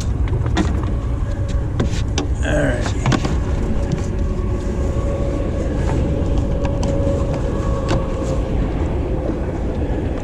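Small fishing boat's motor running steadily under a low rumble of wind on the microphone, with scattered knocks and clicks in the boat.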